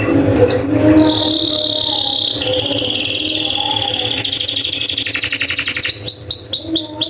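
Pied 'panda' canary singing: a high held note, then a very fast trill from about two and a half seconds in, changing near the end to a run of quick rising-and-falling notes, about four a second.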